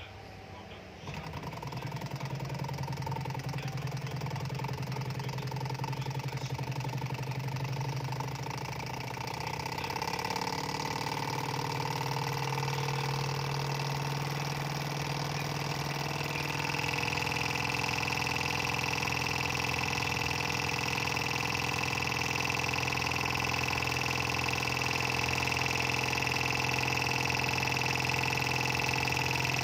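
Small Stirling engine running at a steady speed with a rapid mechanical chatter and a steady hum. It starts suddenly about a second in and grows a little louder and higher-toned partway through.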